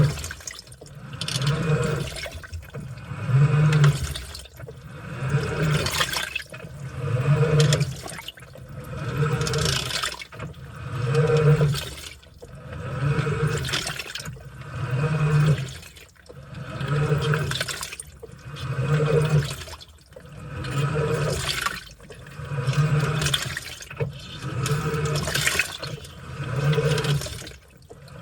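Washing machine in its wash cycle: water and laundry sloshing in regular surges about every two seconds, each with a low motor hum, with short pauses between.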